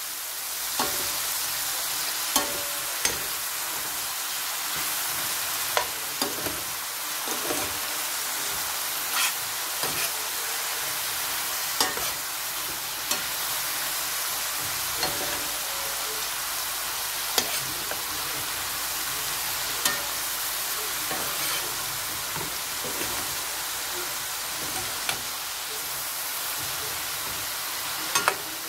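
Sliced button mushrooms sizzling as they fry in a stainless steel pan, stirred with a metal spoon that scrapes and clinks against the pan every second or two.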